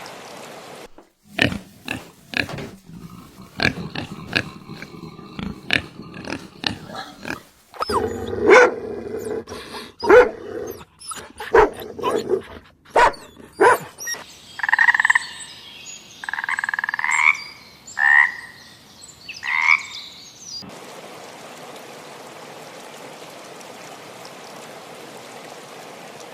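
Frogs croaking in a chorus of short, sharp, irregular croaks and clicks. Then come four short calls rising in pitch, about a second apart. The last few seconds are a steady hiss.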